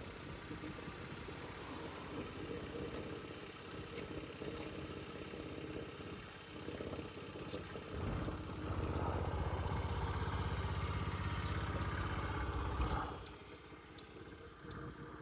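Honda Today AF61 scooter's 50cc single-cylinder four-stroke engine idling, then running louder for about five seconds from about eight seconds in before dropping back to idle.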